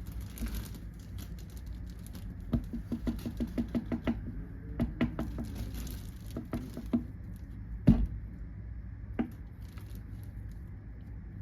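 Light handling taps and clicks: a quick run of about a dozen taps, then scattered clicks and one louder knock about eight seconds in.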